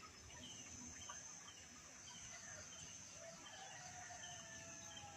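Near silence: faint outdoor background with a steady high-pitched hiss and scattered faint small chirps, in a pause between the coucal's deep calls.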